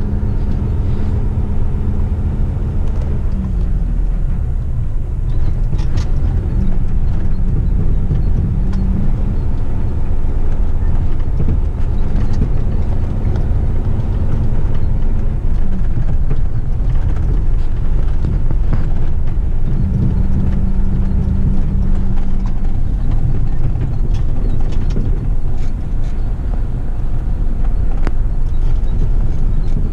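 Heavy rigid truck's diesel engine running under light load at low speed on a dirt track, heard from inside the cab, with occasional knocks and rattles from the truck.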